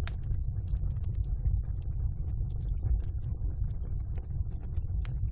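Wood fire crackling in a fireplace: a low steady rumble of the burning fire under frequent small crackles, with a sharper pop right at the start and another near the end.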